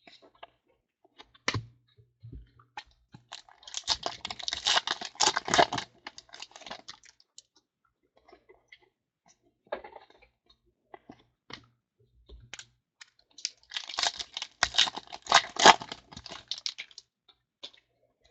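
Football trading card packs being torn open and the cards handled: two long bursts of fast crackly crinkling and tearing of the pack wrapper, with scattered clicks and taps of cards between them.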